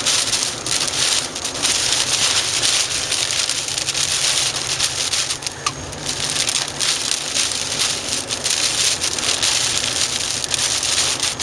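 Heavy rain striking a moving car: a loud, dense, steady hiss full of quick sharp hits, over the car's driving noise.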